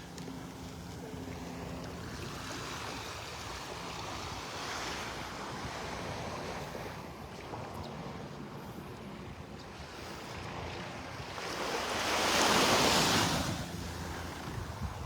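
Gulf of Mexico surf washing onto the beach, with a louder breaking wave about twelve seconds in, and some wind on the microphone.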